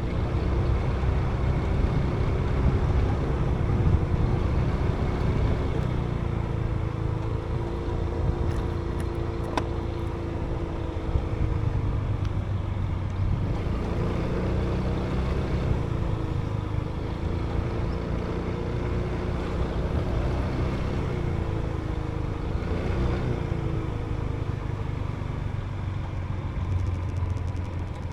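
Motorbike engine running while riding, its note rising and falling several times with the throttle, over a steady low rumble.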